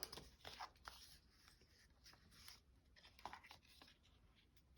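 Near silence with a few faint rustles and ticks of paper being handled.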